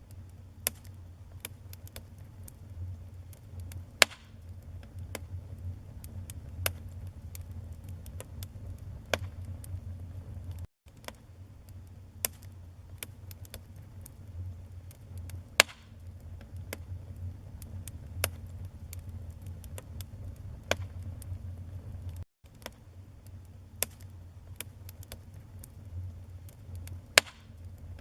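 Wood fire crackling, with irregular sharp pops and snaps over a low steady rumble of the flames; a few pops stand out much louder than the rest. The sound cuts out for an instant twice.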